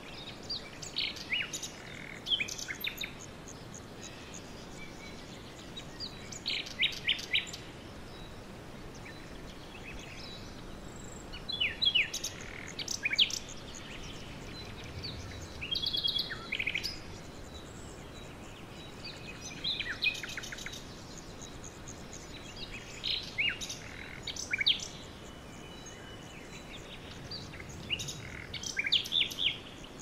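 Small birds chirping, in short runs of high, quick notes and brief trills every few seconds, over a steady background hiss.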